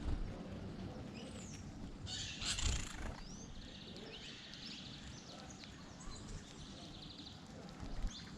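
Small birds chirping and calling, with short high chirps and a quick run of repeated notes a few seconds in, over a steady low background rumble.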